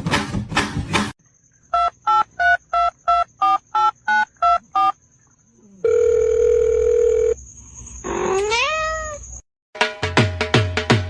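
A run of about ten short, evenly spaced electronic beeps, then a steady held tone, then a single rising meow, likely from a cat. Music with a steady beat starts near the end.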